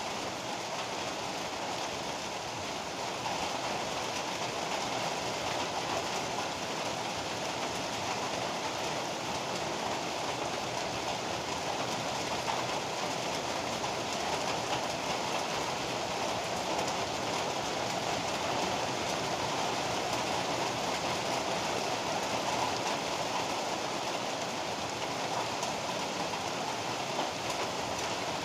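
Heavy rain pouring steadily, a dense, even hiss that grows slightly fuller a few seconds in.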